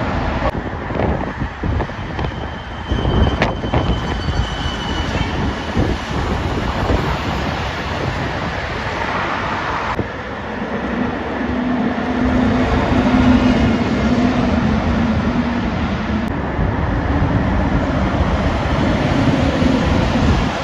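Heavy lorries passing on the road with engine and tyre noise. About halfway through, one truck's engine comes in as a steady low drone that holds almost to the end.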